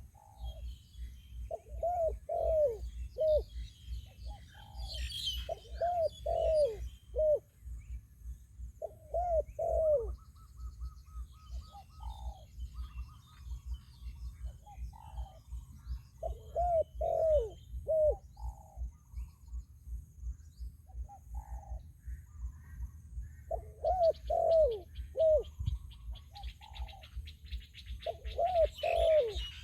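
Spotted doves cooing in short phrases of three or four falling notes, phrase after phrase with pauses between, while small birds chirp and trill more faintly above them. A low steady rumble runs underneath.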